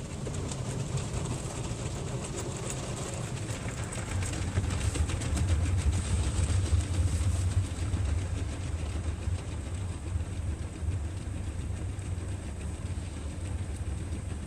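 Automatic car wash machinery working over the car, heard from inside the car: a steady low rumble under a wash of noise with rapid irregular patter on the body, growing louder about four seconds in.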